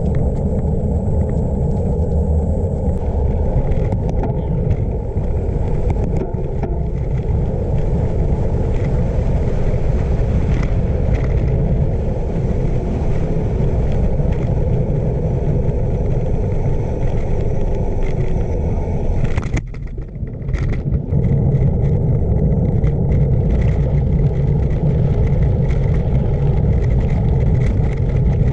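Wind rumbling on the camera microphone while riding a bicycle, steady, with a brief drop about two-thirds of the way through.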